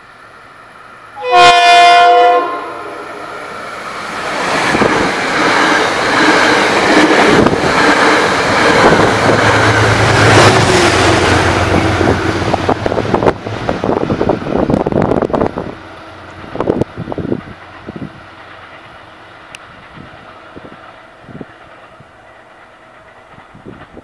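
A train horn sounds one loud blast of about a second as the train approaches, then the train rushes past at speed, a loud rumble that builds and fades, with wheels clicking over the rail joints as the last cars go by.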